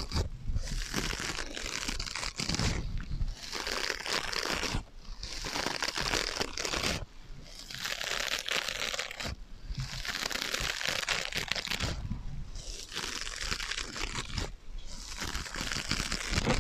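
Scratching on sponges with an echo effect added: about seven scratchy, crinkly passes of roughly two seconds each, with short pauses between them.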